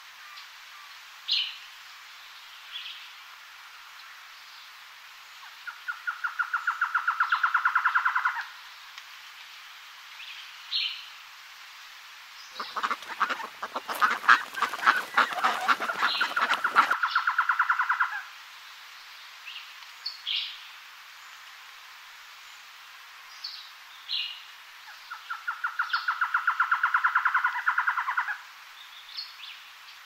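Birds calling: three rattling calls of rapid pulses, each about two and a half seconds long and growing louder, come early, in the middle and near the end. The middle stretch is the loudest and deepest. Short high chirps from small birds are scattered throughout.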